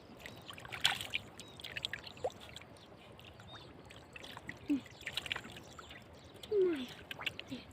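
Shallow floodwater splashing and trickling in short, scattered bursts, with a low steady water sound underneath.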